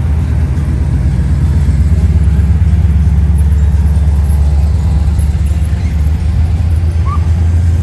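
A car engine running with a deep, steady low rumble.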